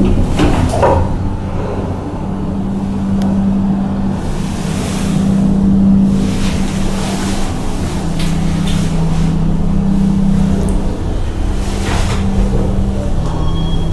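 Steady low machinery hum, a low drone whose pitch drops and rises a few times, with a few brief knocks and rustles over it.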